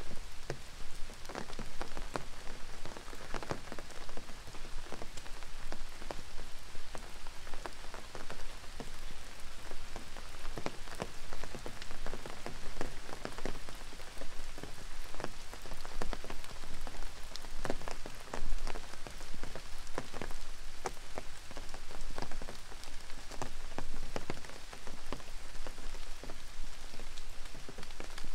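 Steady rain, with many individual drops striking close to the microphone over a continuous hiss of rainfall.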